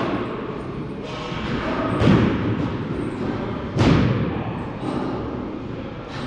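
Dull thumps of baseballs striking, one right at the start, another about two seconds in and a third near four seconds, over a steady rumble.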